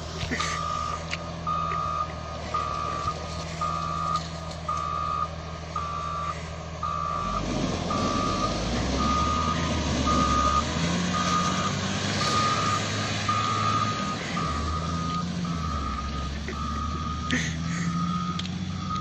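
Reversing alarm beeping steadily, roughly once every three-quarters of a second, over a running engine. The engine note shifts about seven seconds in and then rises and falls under the beeps.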